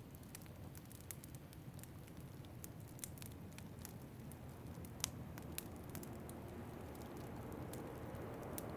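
Wood fire crackling in a fireplace: scattered sharp pops and ticks, the loudest about five seconds in, over a steady low rush of wind.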